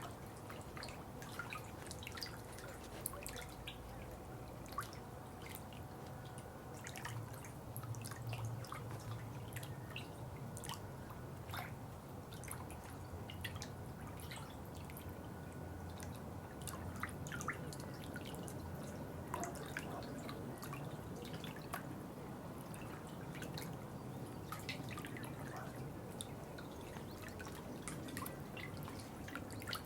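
Water dripping: many small, irregular drops, some louder than others, over a faint low steady rumble.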